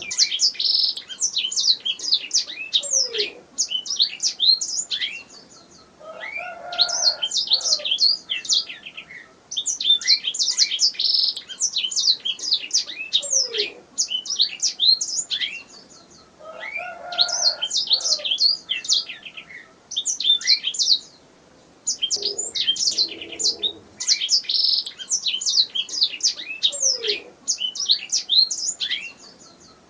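Domestic canary singing in long, fast trilled phrases of rapid high notes, with short pauses between phrases.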